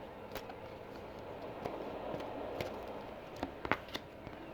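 Tarot cards being handled as cards are drawn from the deck: a few soft taps and clicks, the sharpest about three and a half to four seconds in.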